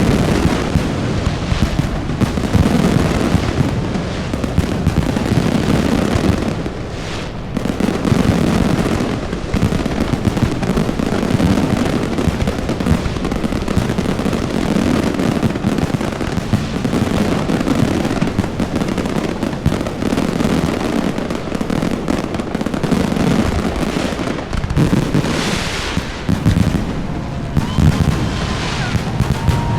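Fireworks display going off in a dense, continuous stream of bursts, bangs and crackle, with a whistling glide near the end.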